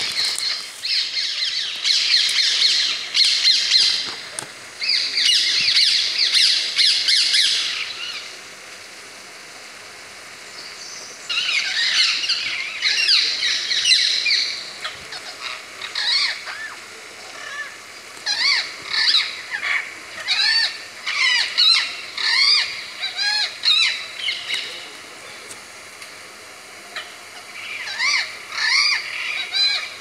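Forest birds calling: bursts of dense, overlapping high chirping with a short lull about eight seconds in, then a run of separate short, curving calls repeated again and again.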